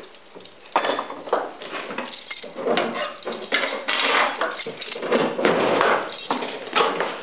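Irregular clanking and rattling of metal tools and objects being handled and set down, a string of sudden knocks and clatters.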